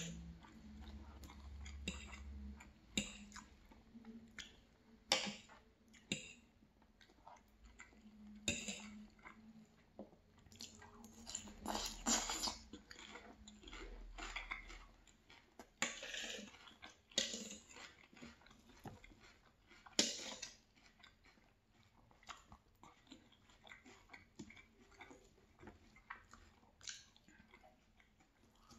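A person chewing and biting mouthfuls of fried fish, rice and salad close to the microphone, with scattered short clicks and brief noisy bursts. A knife and fork cut and scrape on the plate now and then.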